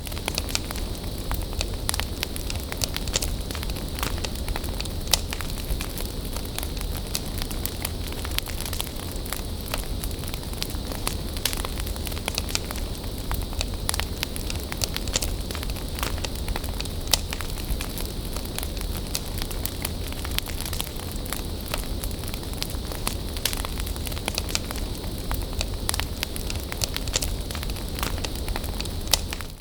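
Wood bonfire burning steadily: a continuous hiss of flames with frequent sharp crackles and pops from the burning wood, over a steady low rumble.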